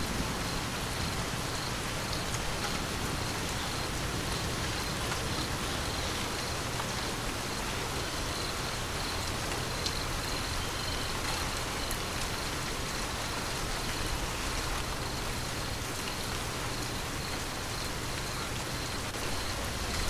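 Steady rain falling, an even hiss with scattered drop taps, and a low rumble underneath.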